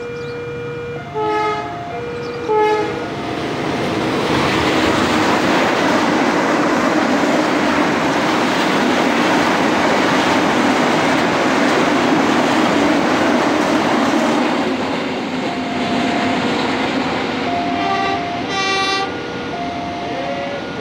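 Freight train of Pertamina fuel tank wagons passing close by, a loud steady rumble and wheel rattle that builds about four seconds in and eases off after about fifteen seconds. Two short train horn blasts sound in the first three seconds, and an electronic level-crossing warning chime steps between a few steady tones before the train drowns it out and again as it fades.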